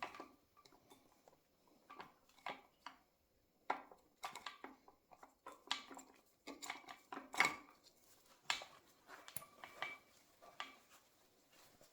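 Faint, irregular metallic clinks and taps as the camshafts are lifted out of a Yamaha R1's cylinder head and set down.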